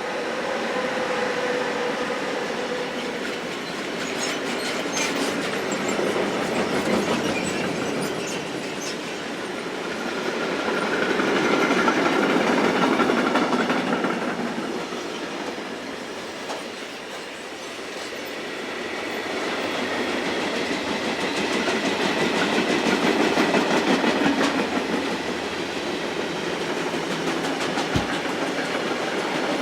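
Continuous noise of a moving vehicle that swells and fades every several seconds, with faint squealing tones now and then.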